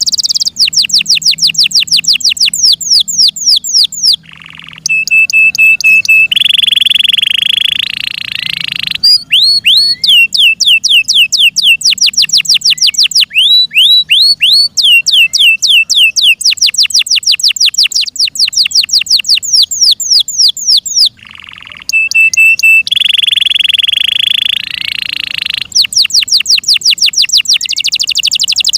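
F1 Yorkshire-cross canary singing a long song. Runs of rapid, evenly repeated falling notes alternate with held steady notes, and there are brief pauses twice.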